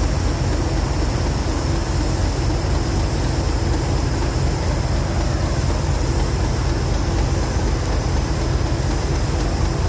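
Diesel train engine running steadily at idle: a constant low rumble with a steady hum over it.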